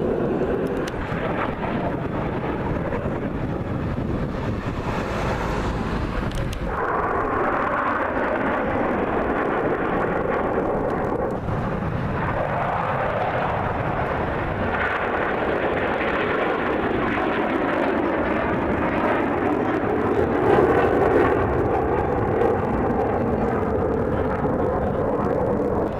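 Aircraft engine noise from a plane in flight. About six or seven seconds in, the deep rumble drops away and a higher-pitched sound takes over.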